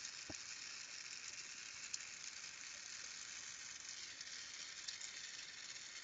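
Carlisle glassworking torch flame hissing steadily.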